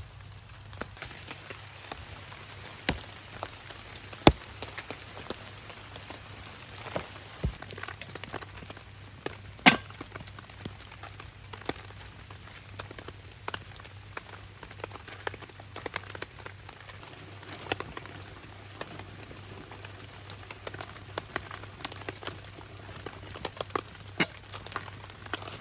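Rain pattering on a tarp over a crackling wood campfire, with frequent small ticks and two loud sharp pops, about four seconds in and about ten seconds in.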